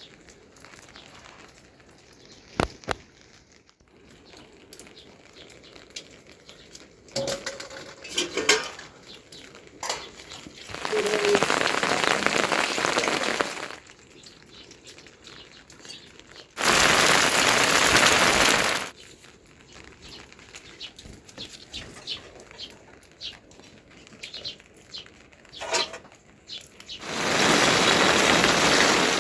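Heavy rain hissing in three loud stretches that start and stop sharply, between quieter stretches of scattered clicks and knocks.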